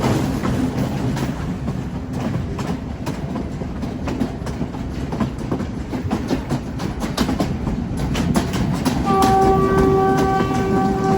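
Train running along the track, a steady rumble and rattle with frequent clicks of wheels over the rail joints. About nine seconds in, the train's horn starts sounding one long, steady note that carries on past the end.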